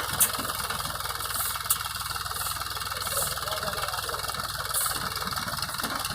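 Mahindra tractor's diesel engine running steadily, with two sharp clicks in the first two seconds.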